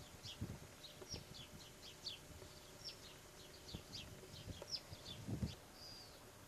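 Small birds singing: a string of short, high chirps, several a second, with a longer whistled note near the end. Soft low thumps sound underneath.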